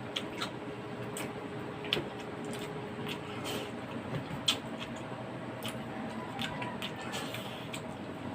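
Eating sounds: scattered light clicks and taps, about a dozen irregularly spaced, of utensils on dishes and of chewing, over a steady background hum.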